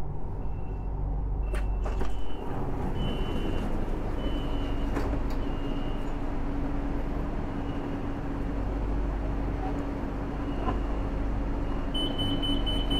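BTS Skytrain station noise: a steady low rumble with a steady hum from about four seconds in, a few short high beeps, and a longer high warning tone near the end, at the platform screen doors whose orange light is lit.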